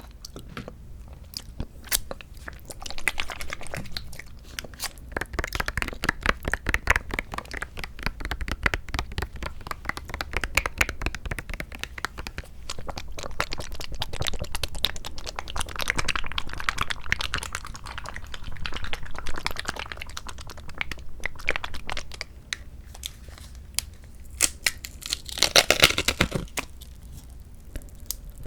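Close-up chewing of mandarin orange segments from a fruit cup: rapid mouth clicks that come in spells, with a louder burst of chewing about 25 seconds in.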